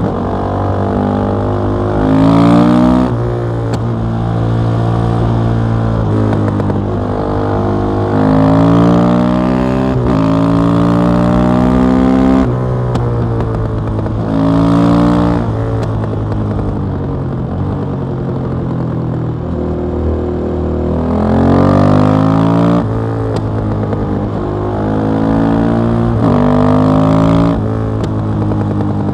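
KTM 660 SMC's single-cylinder engine through an Akrapovic exhaust, pulling hard through the gears several times. Its pitch climbs on each run and drops at every shift or roll-off of the throttle.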